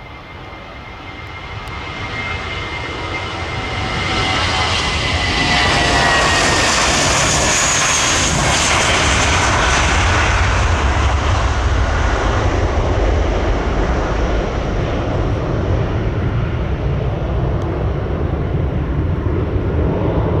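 Jet airliner's engines at takeoff power going past. The sound builds over the first few seconds into a loud, steady roar, and a whine in it falls slowly in pitch.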